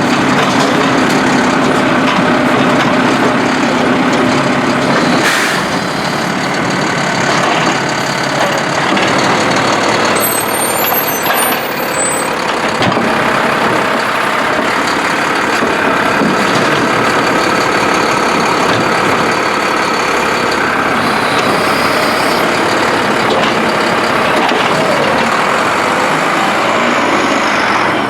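Mack LR refuse truck with a Heil Durapack Rapid Rail automated side-loader body, running loudly and steadily at close range. Its engine note is clear for the first few seconds, and the sound changes about five seconds in.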